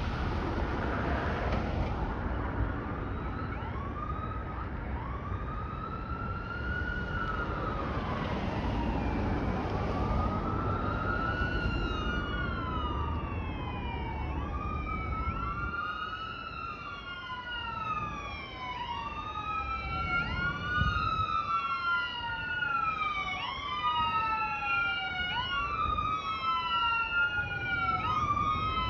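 Emergency vehicle sirens wailing, rising and falling, with a second siren joining out of step about halfway through. A heavy low vehicle rumble sits under the first half and then eases off.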